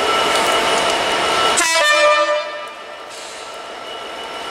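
Rushing noise of a train passing at speed on wet track, dropping away about two seconds in, with a short train horn note just before it fades. A diesel locomotive's low rumble then slowly builds as it approaches.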